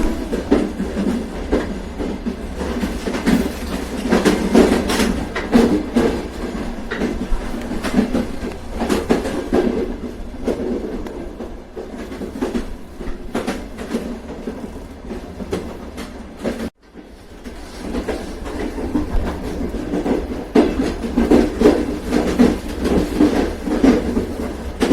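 Train running on rails: a steady low rumble with wheels clacking over rail joints. The sound cuts out for an instant about two-thirds of the way through, then carries on.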